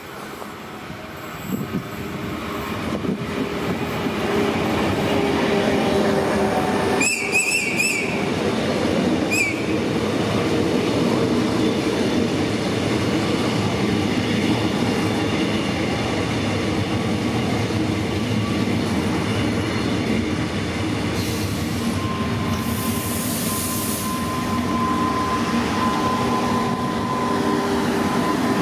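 Renfe Rodalies electric multiple-unit train approaching and running past along the platform: a rising rumble of wheels on the rails with a steady motor whine. Two short high-pitched sounds come about 7 and 9 seconds in, and a steady higher whine joins in over the last few seconds.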